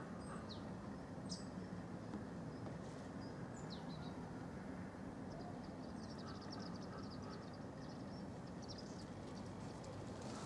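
Small birds calling: a few short, high chirps that sweep downward, then a fast run of high ticking notes, over a steady low background rumble.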